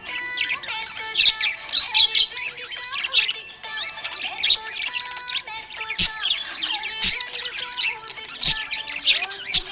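Budgerigars chirping and warbling steadily in quick, overlapping high calls, with a few sharp clicks in the second half.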